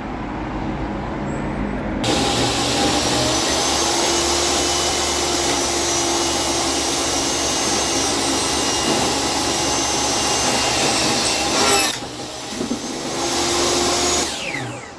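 Table saw running and cutting scrap wood: a steady loud saw noise with a held whine. It drops off about twelve seconds in, comes back briefly, and stops near the end.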